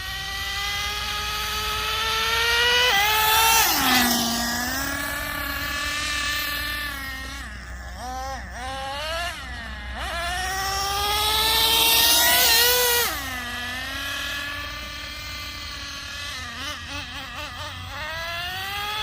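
Traxxas Revo 3.3 RC truck's small nitro engine accelerating twice. Each time the high whine climbs steadily for about three seconds, then drops suddenly as the 2-speed transmission shifts up, and falls away as the truck slows. The second run starts about ten seconds in.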